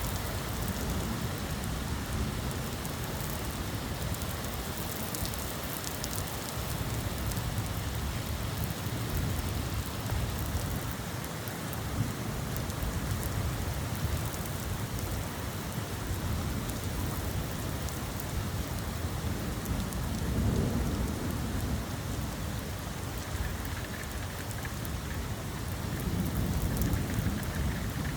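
Steady rain falling, with a low rumble underneath that swells about twenty seconds in and again near the end.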